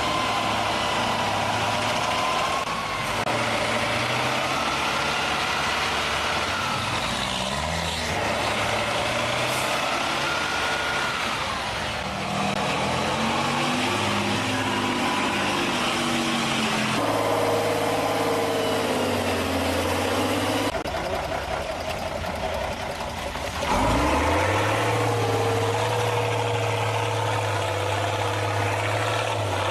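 Big diesel truck engines revving and labouring off road, their pitch rising and falling, with the sound changing abruptly several times.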